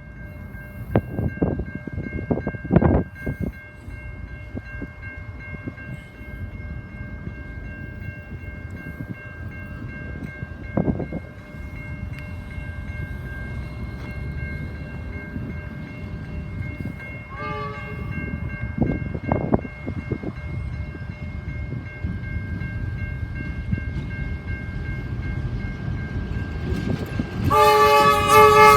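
Diesel locomotives running with a steady low rumble, a few thumps along the way. A short horn toot sounds about two-thirds of the way through, and a loud multi-note horn blast comes near the end.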